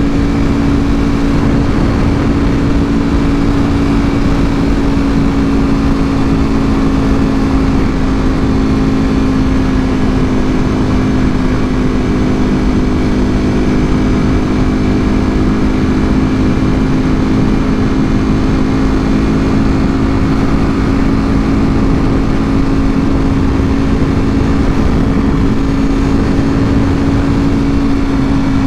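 Ducati Panigale V4R's V4 engine through an Akrapovic full exhaust, running at a steady, held engine speed while riding, with wind and road noise underneath. The engine note stays at one pitch and dips only slightly near the end.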